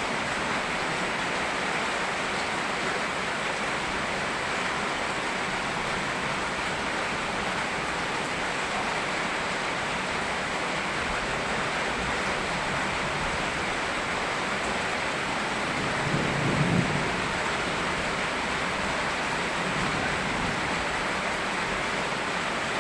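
Steady rain mixed with flowing river water, an even hiss. About sixteen seconds in, a brief low rumble rises over it and fades within a second.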